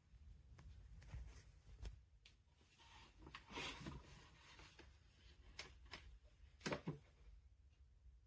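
Faint scattered clicks and knocks with a short rubbing sound in the middle, the loudest knock near the end; otherwise near silence.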